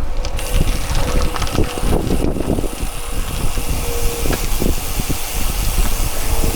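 Wind buffeting and road noise of a bicycle ride, a loud steady rumble with irregular knocks and a faint steady hum.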